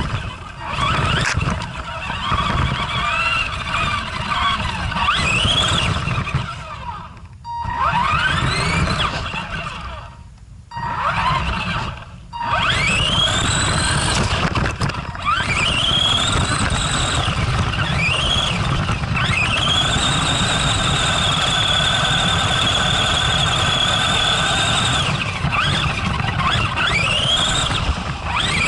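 Arrma Granite RC monster truck's electric motor whining as it is driven, the pitch sweeping up and down with the throttle in repeated bursts, then held high and steady for about five seconds past the middle, over a steady low rumble. Two brief lulls break it in the first half.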